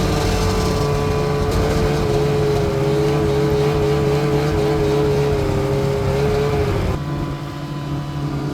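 Arctic Cat two-stroke snowmobile engine running steadily under throttle. Its tone wavers slightly, then the engine eases off about seven seconds in.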